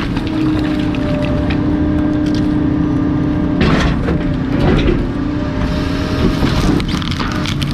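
Bulky-waste refuse truck's compactor running with a steady, non-stop hum. Cracks of material being crushed come a few times around four seconds in and again near the end.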